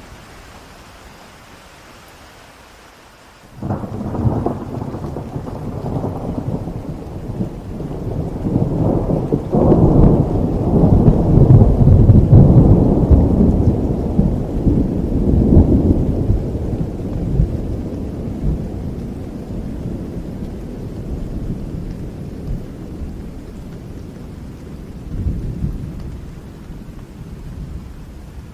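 Steady rain hiss, then a thunderclap about three and a half seconds in that swells into a long, loud, deep rolling rumble and slowly dies away.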